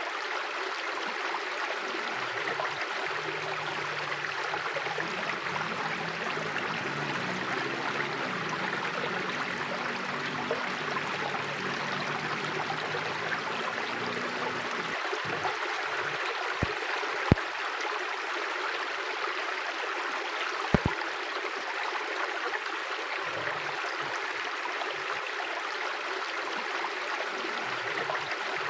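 Mountain river flowing steadily over its bed, a constant rushing of water. Three brief, sharp knocks stand out in the second half.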